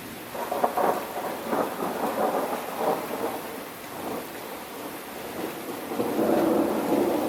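Thunder rumbling over steady rain. It comes in with a crackle about half a second in, eases off in the middle and swells again near the end.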